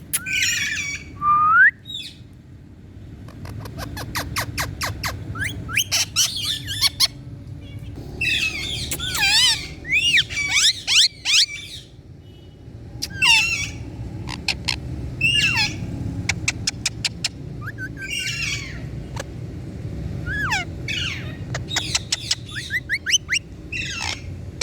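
Indian ringneck parakeet calling in short bursts of squawks, chirps and whistled glides, with rapid runs of clicks in between.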